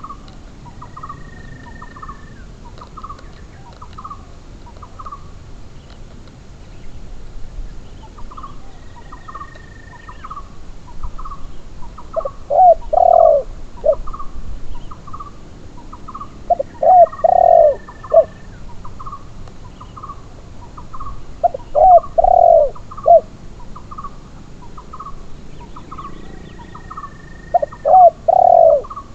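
Spotted doves cooing: a loud, low cooing phrase about every five seconds, over a quieter background of other bird calls repeating about twice a second.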